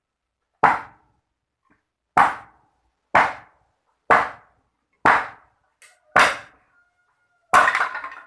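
A series of sharp strikes, about one a second, each dying away quickly, with a longer, rattling strike near the end.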